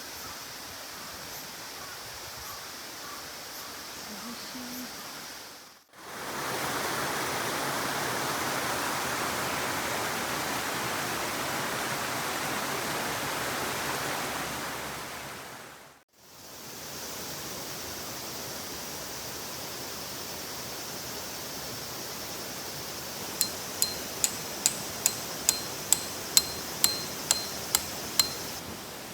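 Running water of a stream, a steady rush that is louder in the middle stretch. Near the end a rapid run of about a dozen sharp ticks sounds over it.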